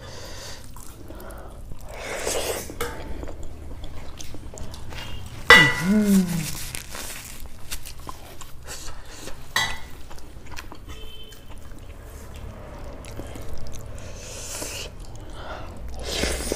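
Chewing and wet mouth sounds of someone eating rice and paneer gravy by hand, picked up close on a clip-on microphone, with scattered small clicks. About five and a half seconds in comes a short vocal 'mm'-like sound, the loudest moment.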